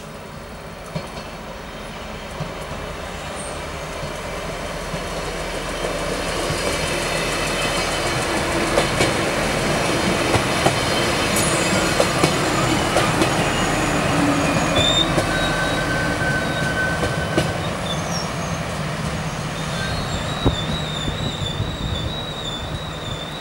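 DB Class 643 Talent diesel multiple unit running past, growing louder to a peak about halfway through and then easing, with clicks of the wheels over rail joints. High thin wheel squeal sets in during the second half.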